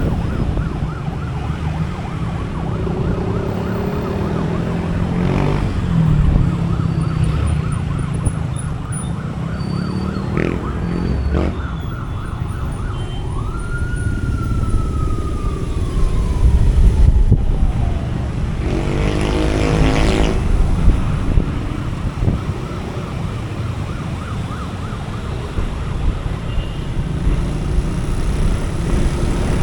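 Motorcycle engine and road noise running steadily while riding in traffic. About halfway through, one siren wail rises quickly and then falls slowly over several seconds, followed by a brief loud honk.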